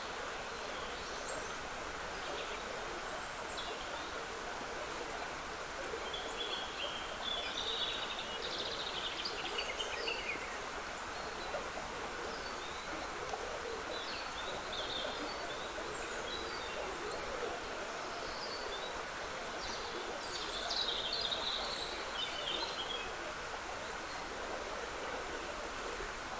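Water trickling steadily in a woodland stream, with songbirds singing short phrases over it, the clearest about a quarter of the way in and again about three-quarters through.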